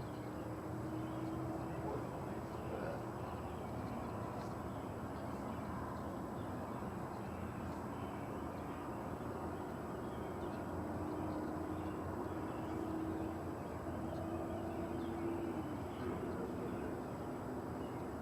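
Unexplained low roar: a steady rumbling drone with a humming tone that slowly climbs in pitch and then drops back lower about three-quarters of the way through.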